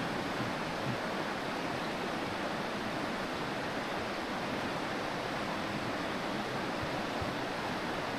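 Mountain stream water flowing with a steady, even rush.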